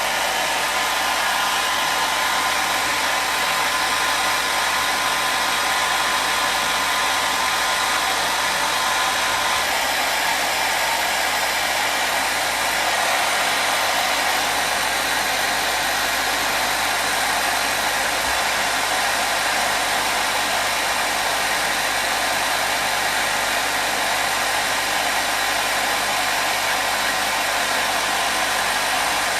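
Hair dryer running steadily: a continuous, even rush of air and motor hiss. A faint tone within it drops out about ten seconds in.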